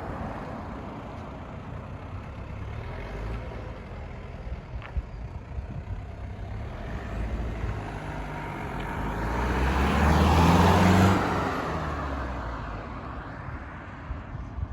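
A motor vehicle running, its engine and road noise growing louder to a peak about ten seconds in and then fading away, as when a vehicle drives past.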